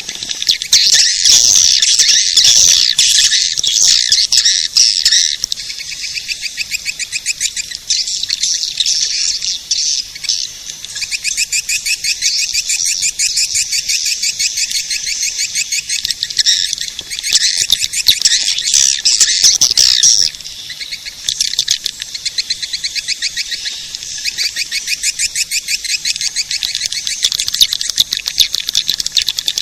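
Swiftlet caller recording: dense, rapid high-pitched twittering chirps of swiftlets, played back as a lure call to draw swiftlets into a nesting house. It drops a little quieter about two-thirds of the way in.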